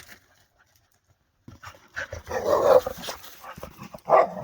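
A dog vocalizing: a drawn-out call about two seconds in, then a short, sharp call near the end.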